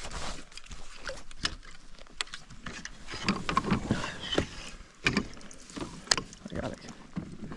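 Irregular knocks, clicks and rustles from a fishing kayak and the angler's gear as he moves in the boat, with water noise.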